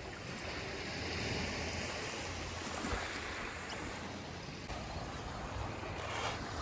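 Ocean surf washing onto the beach, a steady rush of noise that swells a little about a second in.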